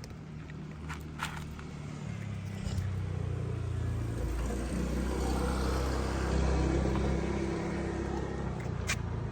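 A motor vehicle passing close by: a low engine rumble builds over the first few seconds, is loudest past the middle, then eases off near the end.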